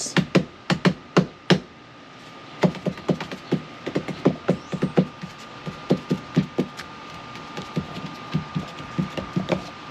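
Irregular knocks and taps of hard objects being handled and set down, a few louder ones about the first second and a half, over a faint steady high tone.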